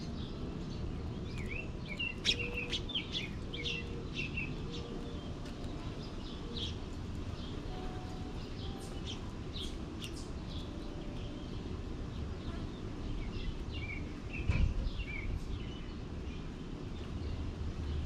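Small birds chirping, with clusters of short, high chirps in the first few seconds and again about three-quarters of the way through, over a steady low background noise. A single low thump comes about three-quarters of the way through.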